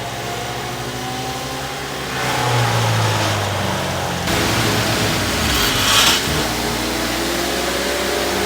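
Fecon FTX128L mulching tractor's diesel engine running under varying load, its pitch shifting as it works. About four seconds in it turns noisier, and there is a brief louder hissing burst around six seconds in.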